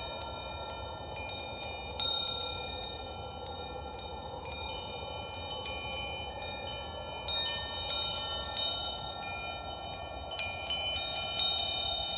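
Wind chimes ringing at random, clear metallic notes struck at irregular moments and left to ring long, over a steady soft hiss. A louder cluster of strikes comes near the end.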